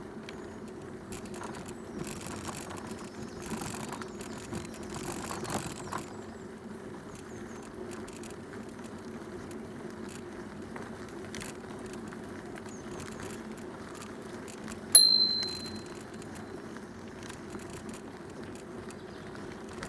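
Bicycle rolling steadily along a towpath, with the handlebar bell rung once about three-quarters of the way through, a single ding that rings clearly and fades over about a second.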